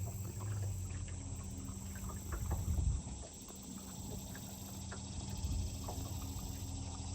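Small boat's outboard motor running at low speed, a steady low hum, with faint scattered ticks over it.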